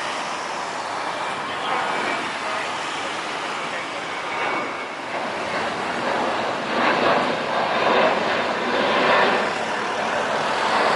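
Jet airliner engine noise as a plane passes, growing louder through the second half.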